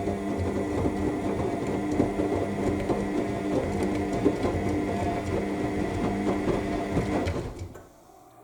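AEG 7000 Series front-loading washing machine turning its drum in the main wash: a steady motor hum and whine with laundry and water tumbling and knocking in the drum. The drum motor stops near the end, leaving a faint background.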